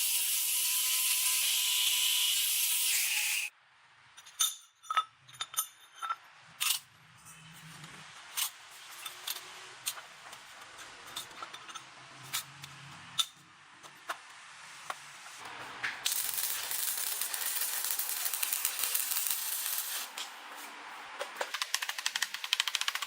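A steady loud hiss, like air or spray blasting metal, stops sharply about three and a half seconds in; then scattered metallic clicks and clinks with a few short ringing pings, a softer hiss from about sixteen to twenty seconds, and a quick run of small clicks near the end.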